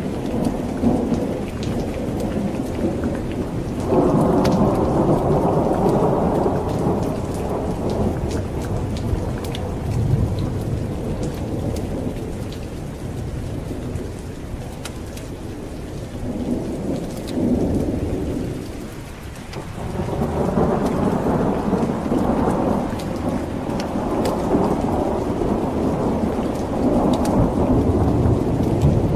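Steady rain with rolling thunder. Deep rumbles swell about four seconds in and again from about twenty seconds on, easing briefly just before the second one.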